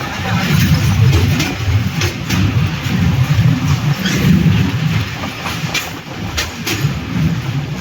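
Passenger train hauled by a diesel locomotive running by with a loud, steady low rumble, with a few sharp clicks of wheels over the rail joints.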